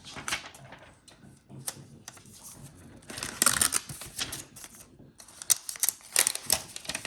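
Hands opening an iPad's packaging: scratchy rustling of paper and plastic with a run of small clicks and ticks, and a longer scraping, crinkling stretch about three seconds in.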